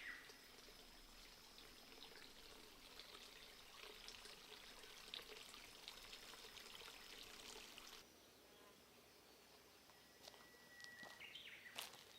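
Small forest stream trickling faintly, with a faint steady high insect-like tone over it. The sound drops suddenly about eight seconds in, and a short high-pitched call and a few clicks come near the end.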